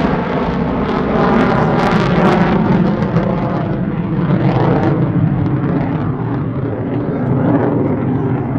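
F-16 fighter jet's engine, a loud, continuous jet noise as the aircraft flies its display. The noise is loudest at the very start and then holds steady.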